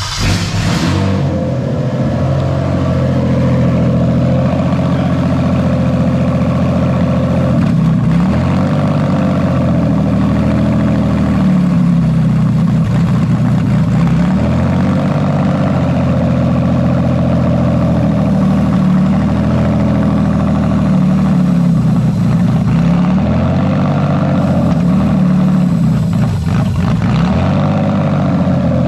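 Toyota JZ straight-six engine catches and settles into a steady idle. About four times the revs sag and recover, each time the mass airflow sensor housing is slid a few millimetres down the intake pipe. The moved housing makes the sensor misread the airflow, so the RPM drops and the engine note changes.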